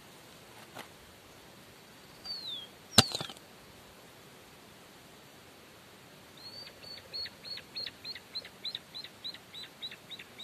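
A small bird calls over a faint steady outdoor hiss. It gives one down-slurred whistle about two seconds in, and from about six seconds in a quick series of down-slurred notes, about four a second. A sharp click about three seconds in is the loudest sound.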